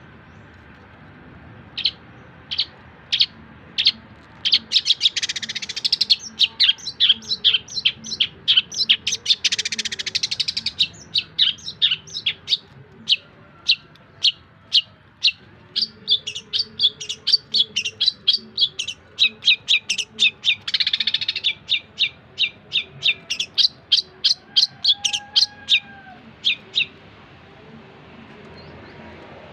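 Long-tailed shrike (cendet) singing a rapid run of sharp, high chirps, several a second, broken by a few short harsh notes. The song stops about three seconds before the end.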